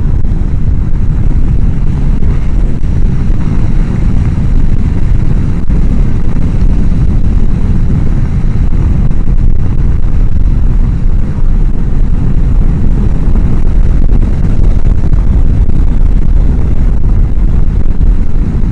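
Loud, steady wind roar on a helmet microphone at road speed on a motorcycle. The microphone is mounted right behind the chin-bar air vent, so the rush of air drowns out everything else.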